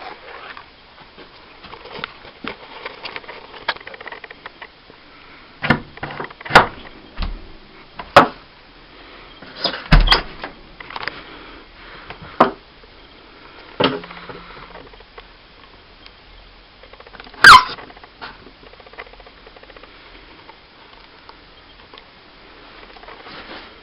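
A handmade arrow catapult being drawn and shot, with a series of sharp snaps and knocks from about six seconds in to past the middle, as the arrows are loosed and strike a fridge. The loudest strike, past the middle, carries a short squeak that falls in pitch.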